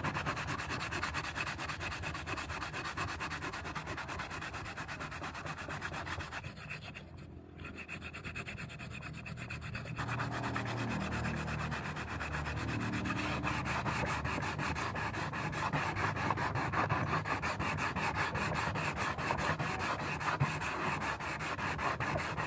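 Sandpaper rubbed rapidly back and forth over a hardened fiberglass-resin patch on a motorcycle fairing, smoothing a lumpy, uneven surface. The scratching lets up briefly about seven seconds in, then carries on.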